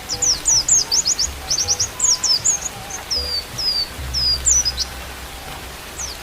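White-eye (pleci) song: rapid, high twittering chirps and quick downward slurs, easing into a few longer falling notes midway before picking up again. Faint held flute notes and a steady hiss of rain lie underneath.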